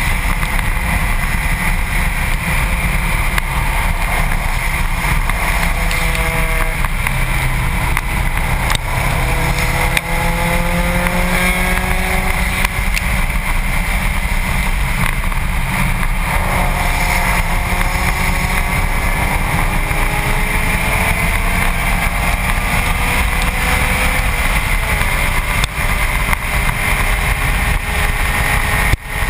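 Wind rushing over a front-bumper-mounted camera, with the Subaru WRX STi's turbocharged flat-four engine underneath, its pitch climbing again and again under acceleration and dropping back between pulls.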